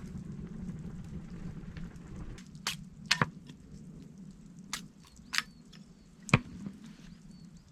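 A low steady hum that stops about two and a half seconds in, followed by half a dozen sharp, irregular knocks and clicks, the loudest just over six seconds in, with faint high chirps near the end.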